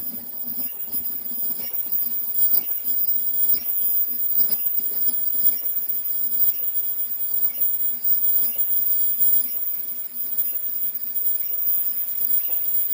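Automatic bird-beak (2D) face-mask making machine running, set to 66 masks a minute: a steady high-pitched whine over a rapid, even clicking of its mechanism.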